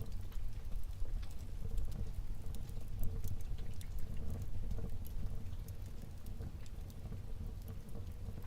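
Wood fire burning in a fireplace: a steady low rumble of the flames with frequent small, sharp crackles and pops from the burning logs.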